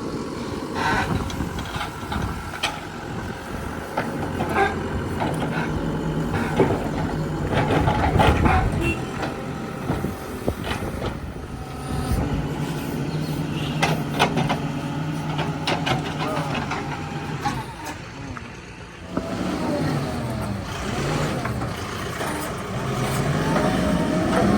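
Diesel engine of a Mahindra backhoe loader running, its speed rising and falling, with scattered knocks and clanks. It dips briefly near the end, then revs up again.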